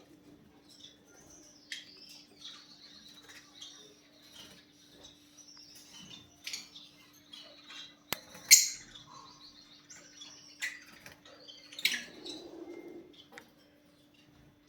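A flock of lovebirds chirping and calling over one another, with a loud shrill call about halfway through and another a few seconds before the end, over a steady low hum.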